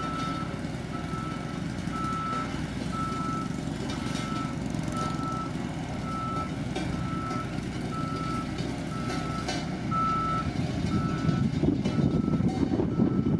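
Reverse alarm of a heavy road-construction machine beeping steadily about once a second, over its diesel engine running; the engine noise grows louder near the end.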